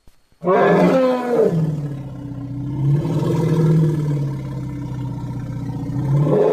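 Creature sound effect of a roaring monster elephant, made from elephant and monster roars. One long roar starts about half a second in, falls in pitch, then holds low and steady. A second roar starts near the end.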